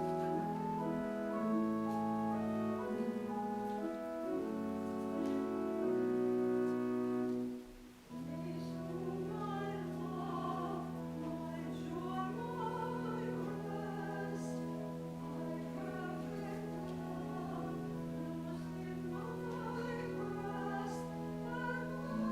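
Church music: organ-like sustained chords for the first several seconds, a brief pause about 8 seconds in, then voices singing over held low accompaniment notes.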